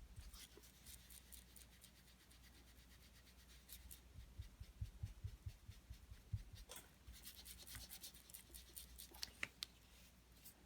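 Faint scratchy rubbing of an ink blending tool working Distress Ink onto cardstock, in irregular strokes with soft taps, busier in the middle and again near the end.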